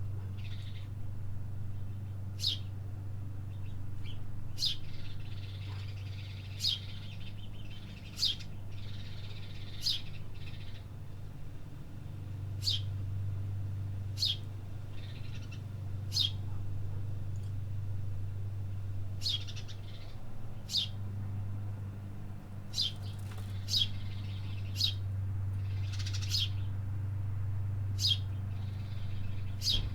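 City birds chirping: one sharp, high chip note repeated about every one and a half to two seconds, with softer twittering between, over a steady low hum.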